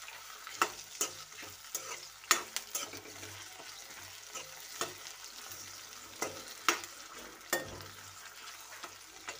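Chunks of onion and tomato sizzling in hot oil in a metal kadhai while a slotted metal spatula stirs them, with irregular sharp scrapes and knocks of the spatula against the pan.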